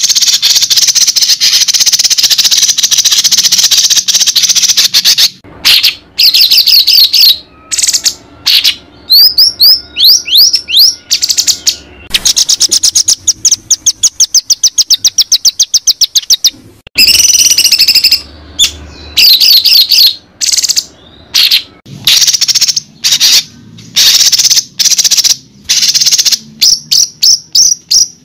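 Loud, varied songbird song from a bird-training (masteran) recording: a long buzzing high trill, then short phrases of sweeping whistles, chirps and a fast run of repeated notes from about twelve to sixteen seconds in.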